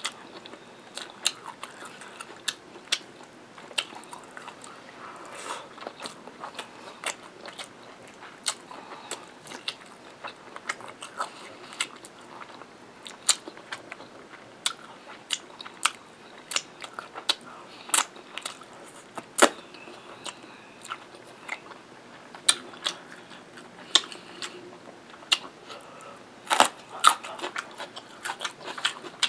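Close-up chewing and mouth sounds of a person eating rice and curry, with irregular sharp wet clicks and smacks.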